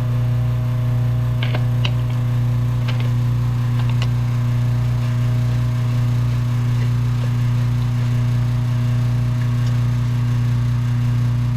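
Electric air compressor running with a steady low hum, with a few light clicks from handling a spray gun and its plastic cup in the first few seconds.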